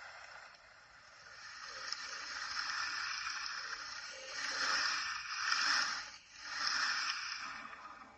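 A rendered water soundscape played back through a phone's speaker: a sloshing, rushing noise that swells and fades several times, loudest in the second half with a short dip in between.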